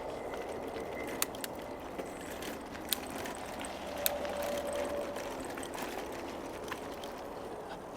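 Bicycle tyres rolling over a rough, bumpy trail surface: a steady rushing rumble with scattered sharp clicks and rattles from the jostled bike.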